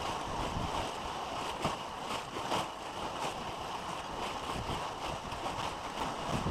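Wind buffeting the microphone in irregular gusts over a steady rushing outdoor noise.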